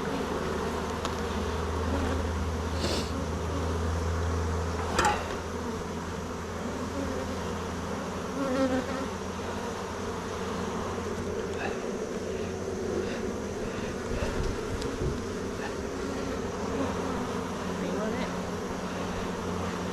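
Many honeybees buzzing steadily, with two brief clicks a few seconds in.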